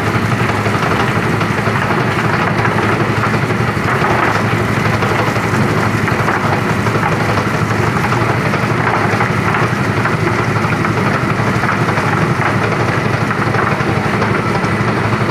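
Chicken feather plucking machine running steadily, its motor and spinning drum making a continuous, loud mechanical noise.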